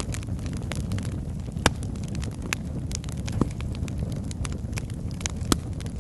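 Wood fire burning in a fireplace: a steady low rumble of flames with irregular sharp crackles and pops from the logs, the strongest about two seconds in and near the end.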